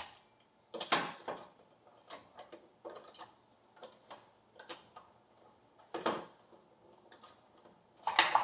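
Irregular metallic clicks and knocks of a lug wrench working on lug nuts as a front wheel is tightened, with the loudest knocks about a second in, near six seconds and near the end.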